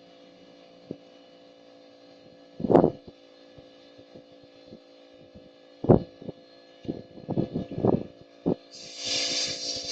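Steady hum under a few sharp knocks and a quick run of clatters, then a hiss starting near the end.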